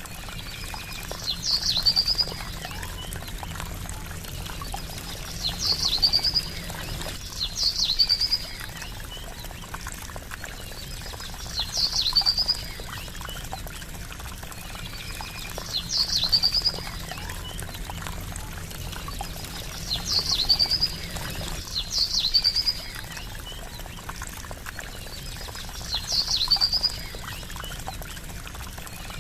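Steady trickling, splashing water with a bird's short, high call repeating about eight times, every few seconds.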